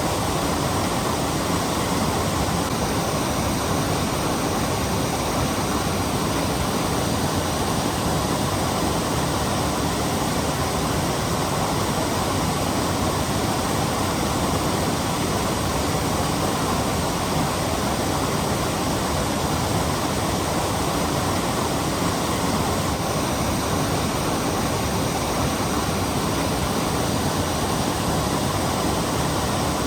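Waterfall's steady rush of falling water, an even, dense noise that does not change.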